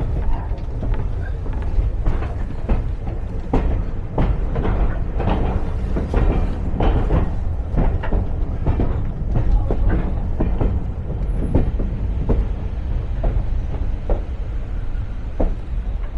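Heritage railway carriage running on the line: a steady low rumble from the wheels on the rails, with frequent irregular knocks and clatter.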